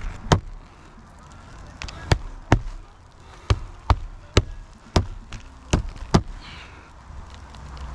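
Hammer driving roofing nails: about ten sharp, separate strikes, many in quick pairs.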